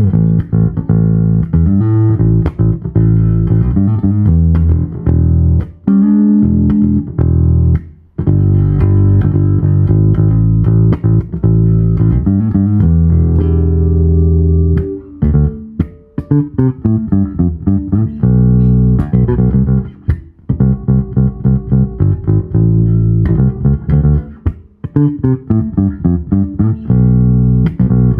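Sadowsky MX20 electric bass played solo: plucked bass lines of held notes, turning to quicker, shorter notes in the second half, with a couple of brief pauses.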